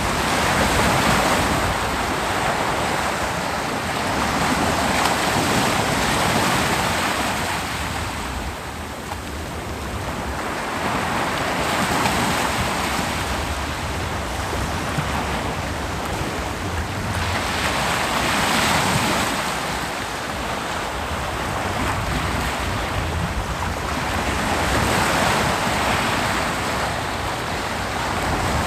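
Ocean surf breaking on a beach: a hissing wash of water that swells and fades about five times, every six or seven seconds, as successive waves come in.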